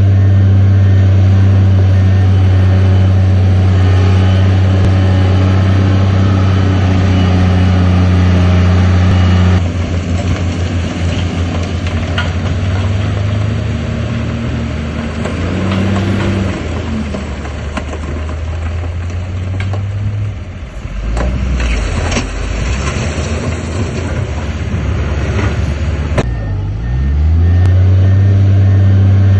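Heavy diesel engine of earth-moving machinery running loud and steady. About a third of the way in it drops abruptly to a rougher, quieter running, with a run of clanks and rattles in the middle. Near the end the engine revs back up to the loud steady note.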